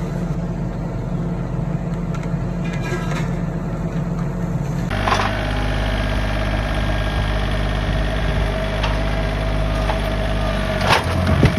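Heavy engine running steadily. About five seconds in it cuts to a different engine with a steady whine over it, and near the end there are a few sharp knocks.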